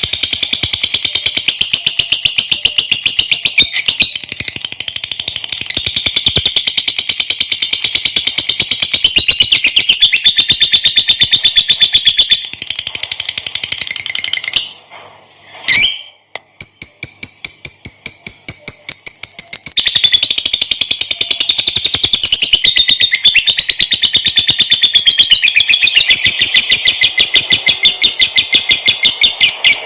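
Lovebird giving its long, rapid, high-pitched chattering trill (the 'ngekek panjang' song), breaking off briefly about halfway through and then starting again.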